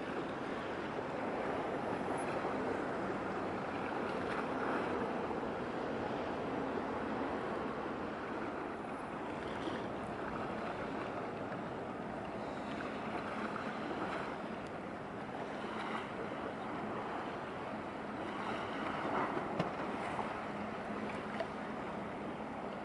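Steady wash of waves and wind along the water, with a faint steady low hum underneath.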